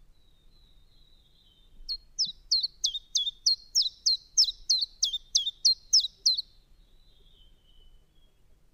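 Common chiffchaff singing: a run of about fifteen short, sharp, high notes, about four a second, slightly alternating in pitch, lasting some four and a half seconds. A faint thin high note sounds under it.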